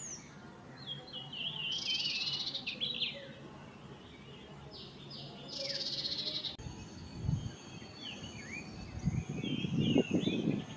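Small birds chirping in short, varied calls, with brief buzzy bursts about two and six seconds in, and low rumbles near the end.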